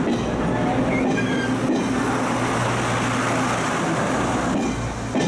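Pingxi Line diesel railcar passing at close range, with a steady engine hum and the rumble of the cars rolling by. A few faint, brief wheel squeals come about a second in.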